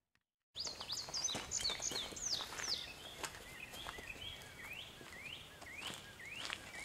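Birds chirping: a run of quick, high whistled sweeps and short chirps, repeating two or three times a second, starting about half a second in after silence.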